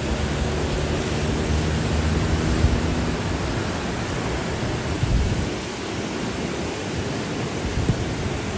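Steady rushing roar of fast-moving floodwater. A low hum of several steady tones runs under it for the first three seconds and then fades out, and a few brief dull thumps come through.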